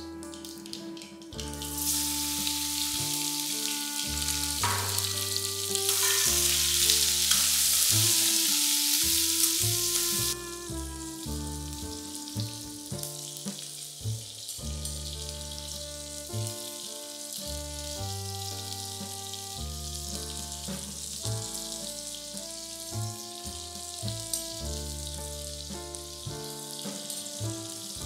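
Gunda (gum berries) and raw mango pieces frying in hot oil in a steel kadai: a hissing sizzle that is loudest for roughly the first ten seconds, then drops suddenly to a softer steady sizzle. Background music with bass notes plays underneath throughout.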